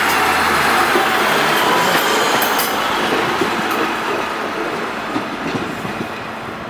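Class 153 Sprinter diesel multiple unit passing close by at a station and drawing away. Its wheels and engine make a rumbling, clicking noise that fades steadily as it leaves.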